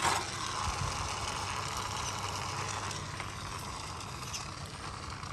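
A click, then a small toy-vehicle motor and its gears whirring steadily, slowly fading a little.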